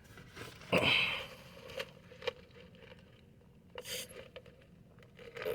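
A short breath or sniff about a second in, then a few faint clicks and taps.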